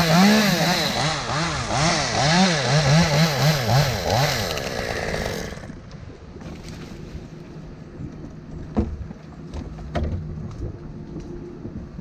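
Two-stroke chainsaw revved over and over, its pitch rising and falling with each squeeze of the throttle, then shut off about six seconds in. After that come a few faint knocks.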